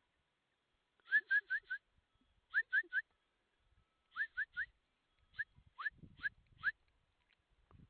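Short, rising whistle-like animal calls in quick runs of three or four, repeated four times, with faint low thumps near the end.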